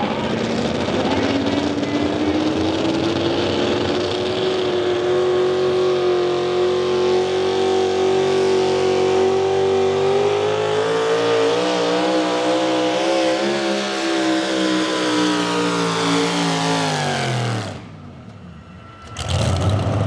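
Modified 4x4 pulling truck's engine revving high under load during a pull, its pitch climbing steadily for the first ten seconds, holding, then falling away before it cuts off near the end. A second later the engine sound comes back abruptly.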